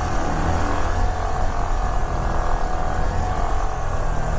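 Motorcycle riding at a steady speed, its engine running evenly over a strong, steady low rumble.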